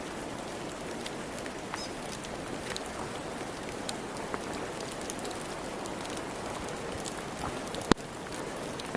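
Steady patter of water dripping and falling from the wet forest canopy, with scattered small ticks and one sharp click near the end.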